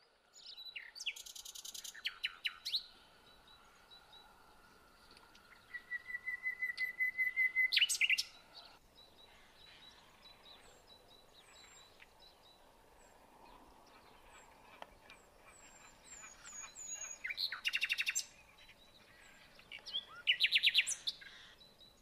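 Wild birds calling over a marsh: several bursts of rapid, repeated high notes, the longest a run that grows louder for about two seconds and stops sharply, with faint high chirps in the quieter stretches between.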